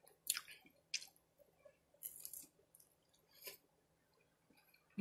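A person chewing a crunchy tortilla taco cup with their mouth closed: four faint, crisp crunches spaced about a second apart, dying away near the end.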